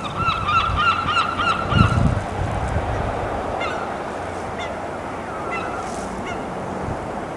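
A bird giving honking calls: a quick run of calls over the first two seconds, then single calls about once a second, over steady background noise.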